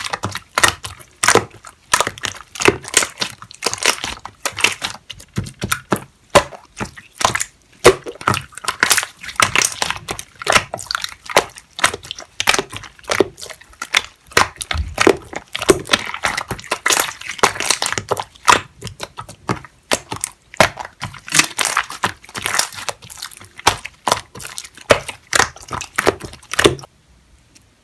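Slime being squeezed, stretched and poked by hand, with dense wet crackling and popping of trapped air bubbles, several pops a second; it stops abruptly near the end.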